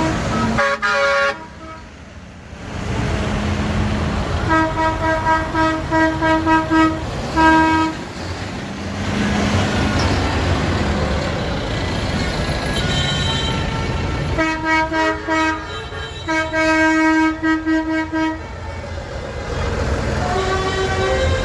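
Vehicle horns tooting in two runs of short blasts, the later run ending in one longer blast, over the low rumble of idling diesel engines.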